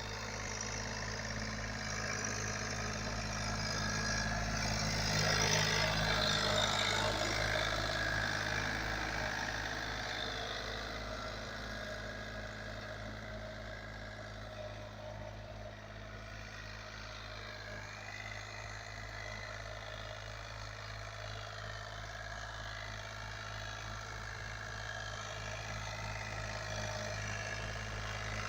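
John Deere 3036EN mini tractor's diesel engine running steadily while working a cultivator. It grows louder about five seconds in, then eases back.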